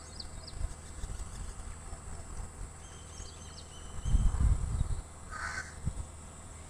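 A crow caws once about five and a half seconds in, over faint, thin, high chirps of small birds about three seconds in. A low buffeting rumble on the microphone, about four seconds in, is the loudest sound.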